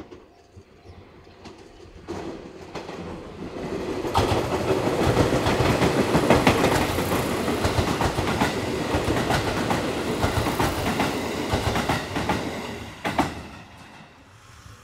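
Electric train running past a station platform, its wheels clacking over the rail joints. It builds up over a couple of seconds, stays loud for about eight seconds, then fades away near the end.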